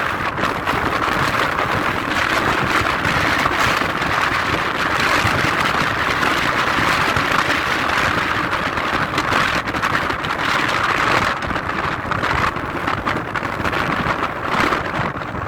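Jet aircraft engine noise: a loud, steady rush with small swells in level.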